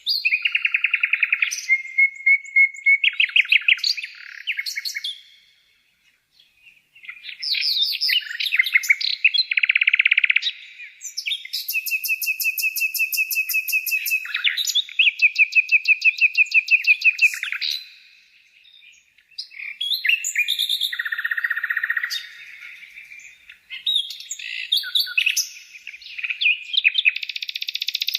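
Songbird singing a long, varied song of rapid trills, chirps and held buzzy notes, in phrases broken by two short pauses.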